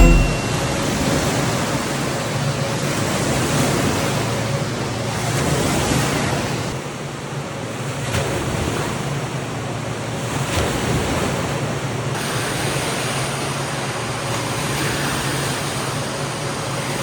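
Steady rushing and splashing of water from an indoor water park's wave pool, swelling and easing slowly.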